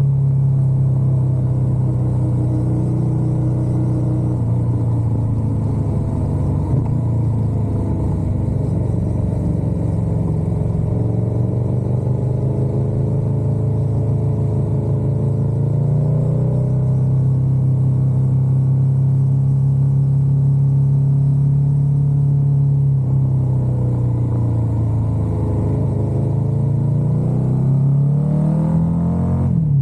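Motorcycle engine running under way on the road, its pitch rising and falling with the throttle. Near the end the revs climb steeply, then drop back suddenly as in a gear change.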